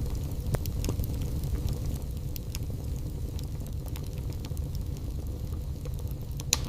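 Wood fire burning in a fireplace: scattered sharp crackles and pops over a steady low rumble, with one louder pop near the end.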